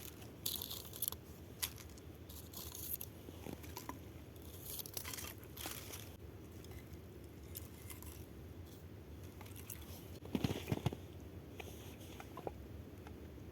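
Irregular crunching, snapping and tearing of dry wood and kindling being broken and handled, with a louder cluster of cracks about ten seconds in.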